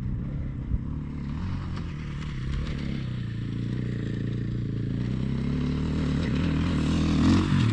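Dirt bike engine running steadily, its revs rising about seven seconds in.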